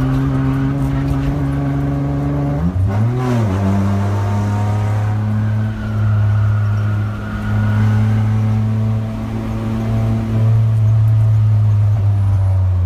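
Car engine heard from inside the cabin, running hard at speed on a race track. About three seconds in its pitch briefly rises and dips, then it holds a steady, lower note.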